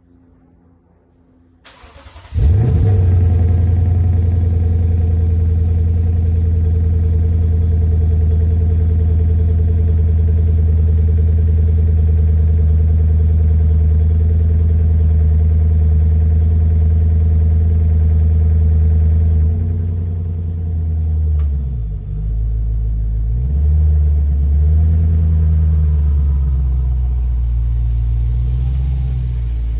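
A 2020 Lexus GS-F's 5-litre 2UR-GSE V8, running through an RR Racing Valvetronic exhaust, cranks and fires about two seconds in, then idles loud and steady. About two-thirds of the way through, the idle drops lower and its pitch wavers up and down.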